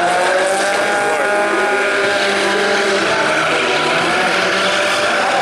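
Nissan S13 drift car's engine held at high revs through a slide, its pitch wavering slightly up and down.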